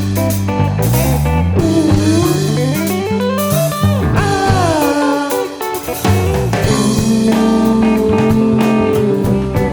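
A rock band playing an instrumental blues-rock jam: a lead line slides up and then back down in pitch, then settles into long held notes, over bass and drums.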